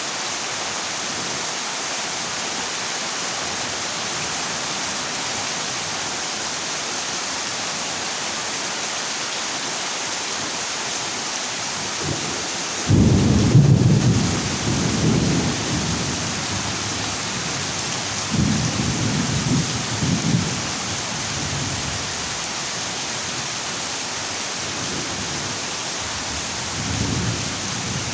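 Heavy rain drumming steadily on a corrugated zinc roof, with thunder breaking in suddenly about halfway through as a loud low rumble that fades over a few seconds, followed by a second rumble and a fainter one near the end.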